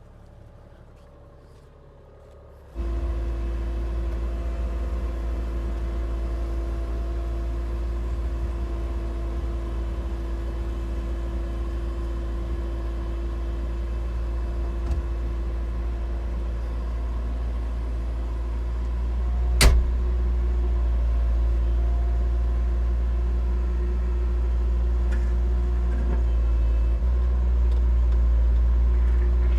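Excavator's diesel engine running steadily, coming in suddenly about three seconds in after a quiet start and growing a little louder later. A single sharp metallic knock sounds about two-thirds of the way through.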